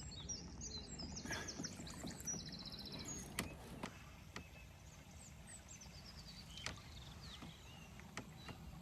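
Canoe moving on a flowing river: a steady low wash of water with a few sharp knocks, likely paddle or hull. Small birds sing high, rapid trills over it for the first few seconds, then softer falling notes.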